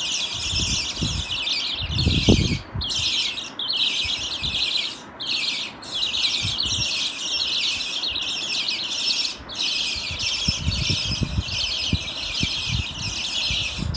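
A flock of small parrots, budgerigars, chattering and chirping without pause, with a few low bumps or thumps, the loudest about two seconds in and several more near the end.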